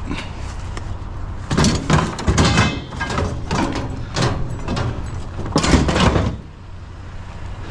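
Loud clattering knocks and bangs at a vehicle, with a door among them, over a steady low engine hum. The clatter stops a little after six seconds in, and the sound is quieter after that.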